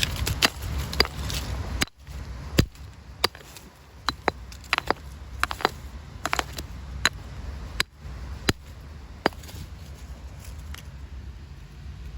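Rocks being struck to break them open: sharp, irregular knocks of stone on stone, a few every second, over a low steady rumble.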